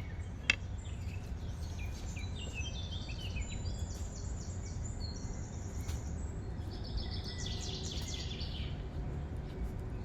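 Wild birds singing in quick, repeated trills over a steady low rumble of background noise, with one sharp click about half a second in.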